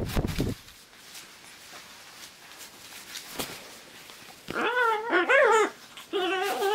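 An animal's wavering, whine-like calls: two drawn-out pitched calls about two-thirds of the way through, after a quieter stretch.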